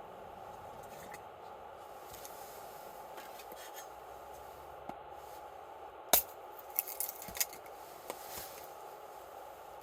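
Camp cookware and utensils clinking and knocking: one sharp clink about six seconds in, then a few quicker ones, over a steady low hiss.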